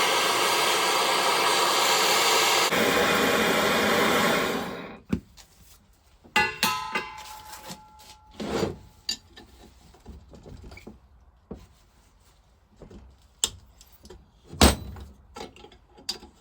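A heat gun blows steadily while the vaporiser casting is warmed to free seized parts. About four and a half seconds in it is switched off and dies away. Then come scattered knocks and clinks of metal tools on the cast-iron vaporiser, including one ringing metallic clink and a sharper knock near the end.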